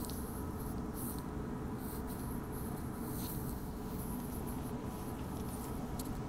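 Passenger train running along the track, heard from inside the carriage: a steady low rumble with faint scratchy crackles and clicks over it.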